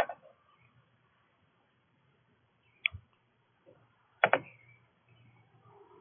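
A few sharp clicks or taps: one at the start, one about three seconds in, and a quick pair a little after four seconds, with near quiet between.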